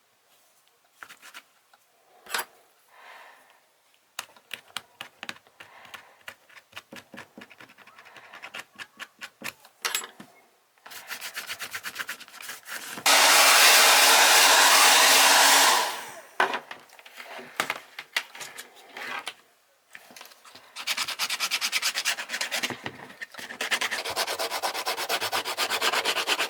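Abrasive rubbing and scraping strokes on a sneaker sole as the old glue is cleaned off, in runs of quick strokes that are densest near the end. In the middle, a loud steady motor sound runs for about three seconds.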